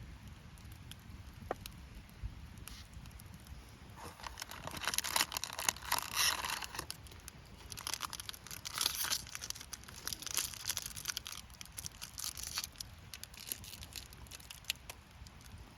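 Crinkling, rustling and tearing noises in three bursts of dense crackly clicks, with scattered lighter clicks between.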